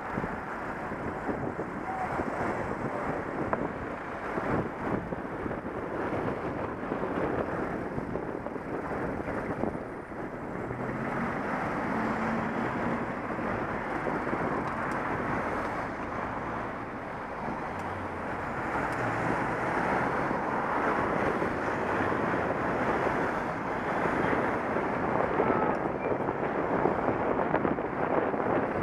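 Wind buffeting an action camera's microphone while cycling: a steady, gusting rumble that rises and falls in level.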